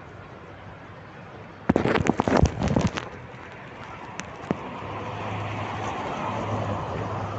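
Steady rainfall hiss, broken about two seconds in by a burst of loud, sharp cracks lasting about a second. From about five seconds a low hum comes in and the hiss swells.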